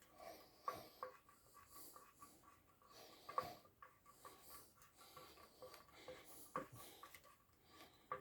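Near silence with faint scattered taps and scrapes from a Jawa motorcycle muffler being handled: it no longer rattles, because its inner part has been given a larger diameter.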